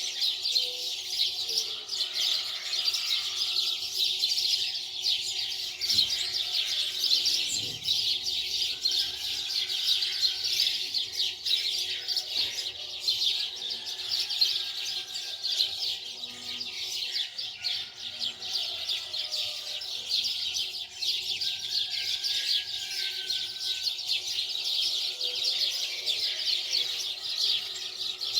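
Dense, continuous chirping of many small birds, with a faint steady hum underneath.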